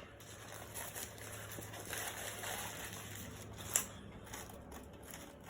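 Faint close-up eating sounds: soft chewing and rustling of food and wrapper, with a single sharp click a little under four seconds in.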